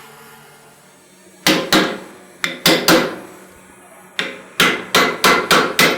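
Blacksmith's hand hammer striking a punch against a hot steel skull on the anvil, setting the upper jaw: sharp ringing metal blows, first a group of about five, then after a short pause a faster run of about seven.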